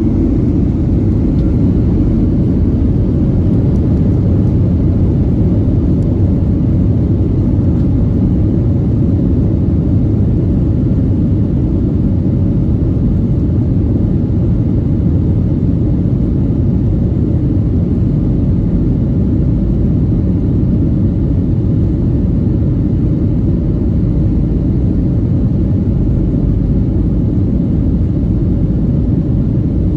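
Steady, loud, low rumble of a Boeing 737-900ER's CFM56-7B turbofan engines and rushing air, heard inside the passenger cabin from a window seat.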